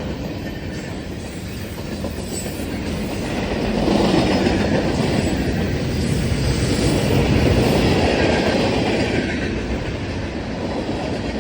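Norfolk Southern freight train passing: a steady rolling noise of wheels on the rails that grows louder about four seconds in and eases near the end.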